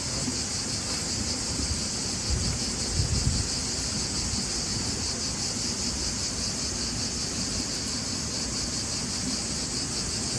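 Steady high-pitched insect chorus, an unbroken shrill chirring with a fine even pulse, with a few low rumbles about two to three seconds in.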